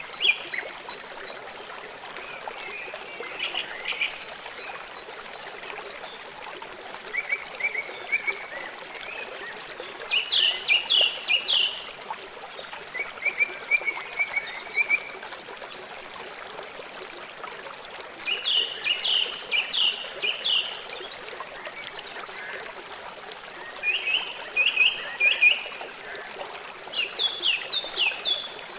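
Birds singing in short repeated phrases of quick chirps, a new phrase every few seconds, over the steady rush of a forest stream.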